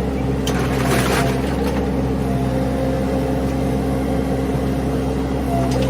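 Engine running at a steady speed, with brief rattling noises about a second in and again near the end.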